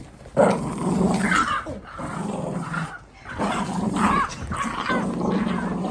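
Dogs growling while playing tug of war over a rope toy, in two long stretches with a short break about three seconds in, with a few brief higher yips mixed in.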